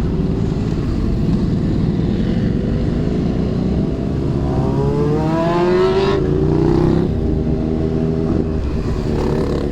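Honda CBR600RR's inline-four engine running under way. About four seconds in it revs up in a rising whine for about two seconds, then falls off sharply and runs steady again.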